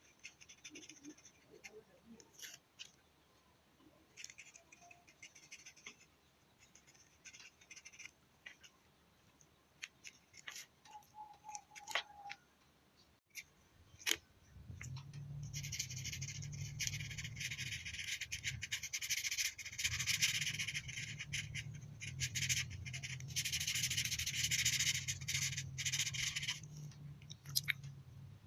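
Drawing tool on paper: scattered small taps and scratches at first, then about halfway through steady, rapid rubbing strokes of colouring that run on without a break.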